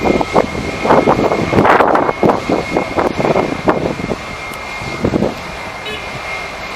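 Jet airliner engine noise with a steady high whine, mixed with irregular gusts of wind on the microphone that ease off about four seconds in.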